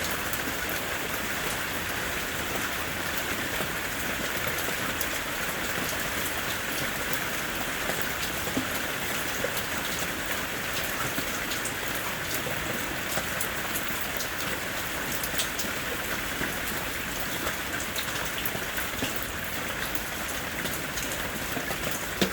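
Heavy rain falling steadily, with many sharp individual drop hits on a hard surface over an even hiss.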